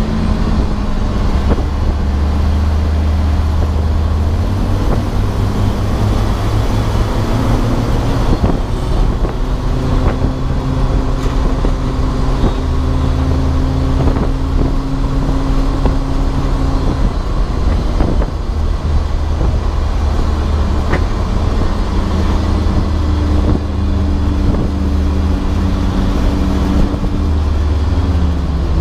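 Race car engine running hard on track, its pitch holding steady, then dropping and climbing again in steps as the car brakes, shifts and accelerates, over constant road and wind noise.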